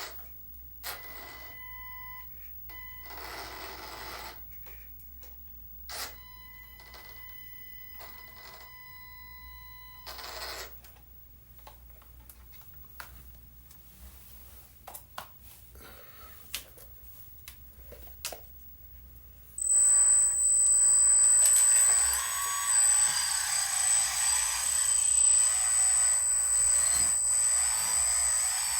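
Small electric hydraulic pump on a converted Huina RC dump truck starting about two-thirds of the way in and running with a loud, steady high whine. Before it, faint clicks and short steady electronic tones sound on and off.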